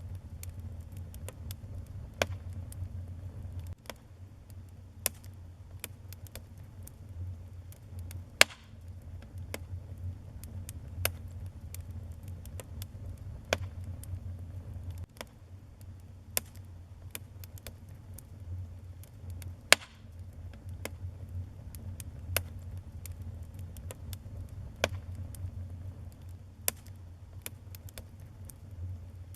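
Wood fire burning in a fireplace: a steady low rumble from the flames, with scattered sharp crackles and pops. The two loudest pops come about a third and about two-thirds of the way through.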